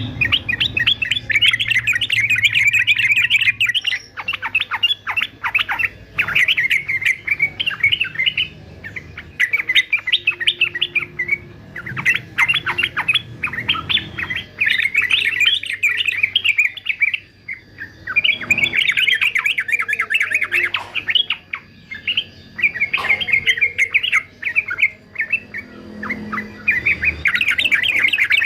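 Male yellow-vented bulbul (trucukan) singing in rapid, chattering bursts of chirps, each a few seconds long with short pauses between: the hard, fast "fighter" song that fanciers use to train caged birds.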